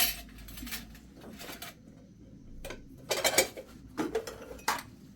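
Dishes and utensils being handled: scattered light clinks and knocks, with a quiet stretch about two seconds in, then a quicker run of knocks near the end.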